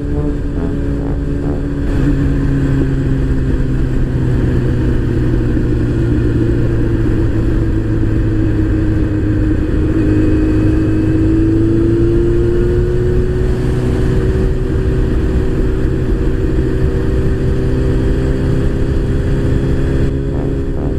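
Motorcycle engine running under way on the road. It gets louder about two seconds in, its note sags slowly, then rises about halfway through as the throttle opens, and then holds steady.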